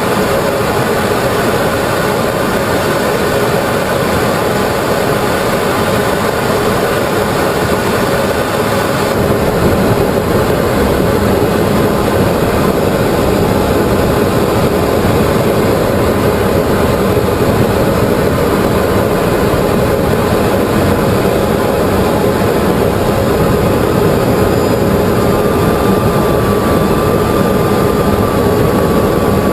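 Steady engine and airflow noise of a small aircraft in flight, heard from inside the cockpit, with a faint thin whistle joining near the end.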